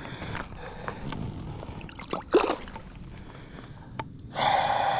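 Water splashing and sloshing, with a sharper splash about two and a half seconds in and a louder rush of splashing near the end.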